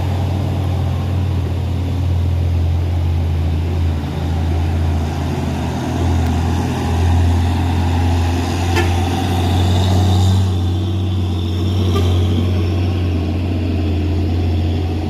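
Heavy diesel truck engine running close by, a loud steady low drone, with a faint high whine joining in around the middle.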